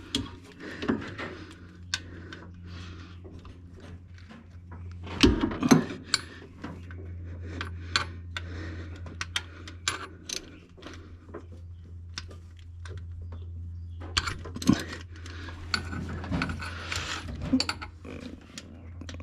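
Metal hand tools and fittings clinking and knocking irregularly while bolts are worked loose, with the loudest knocks about five seconds in, over a low steady hum.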